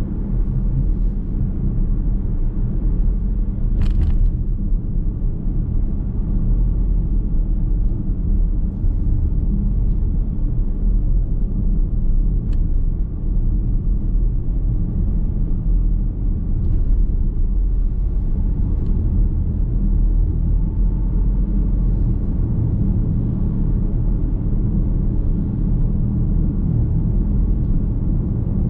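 Car driving along a road, heard from inside the cabin: a steady low rumble of tyre and road noise, with a sharp click about four seconds in.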